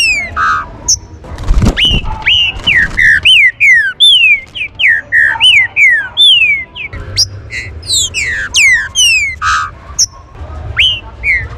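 Green-winged saltators (trinca-ferro) calling in a rapid, unbroken run of sharp whistled notes, each one sliding steeply down in pitch. A dull thump about two seconds in.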